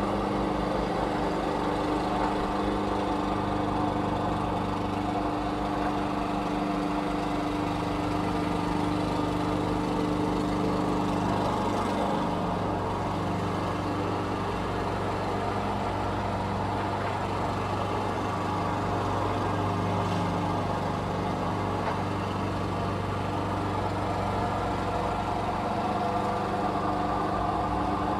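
Lawn mower engine running steadily, its note shifting slightly partway through.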